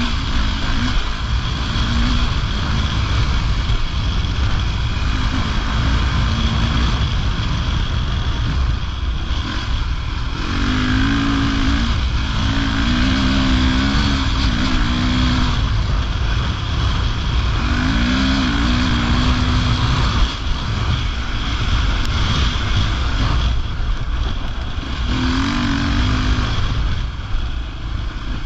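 Off-road rally motorcycle's engine heard from on board, the revs climbing and dropping several times as it is ridden along a gravel track, under a heavy rush of wind noise.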